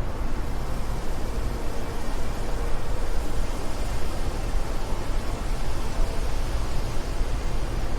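Wind blowing steadily: an even rushing noise with a strong low rumble underneath.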